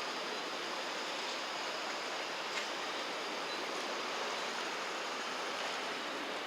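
Steady rushing riverside noise, like moving water, with a faint thin high tone over it.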